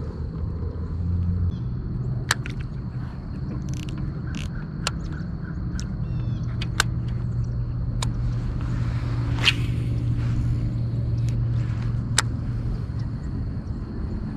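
A small motor drives the kayak across the water: a steady low hum with a thin high whine above it, and a few sharp clicks.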